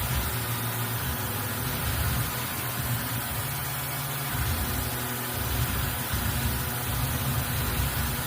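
CNC milling machine running, a steady machine hum with several fixed tones over a low rumble that rises and falls every second or two.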